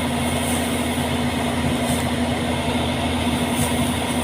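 Wheat combine harvester running with a steady mechanical drone and a constant hum.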